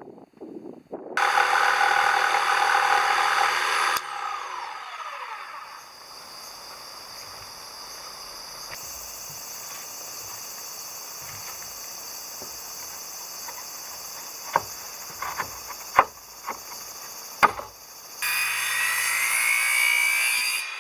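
Power tools working timber in short spells: a tool runs loud and then winds down, then a steadier stretch with a few sharp knocks, then a tool starts up again with a rising whine near the end.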